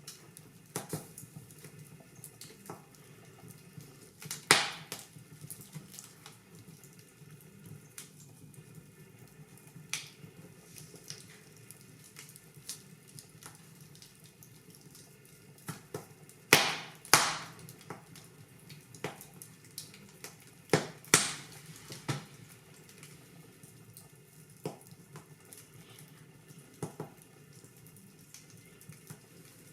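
Wood fire crackling in a fireplace: a low steady hiss with irregular sharp pops, the loudest a single pop about four seconds in and a cluster of pops past the middle.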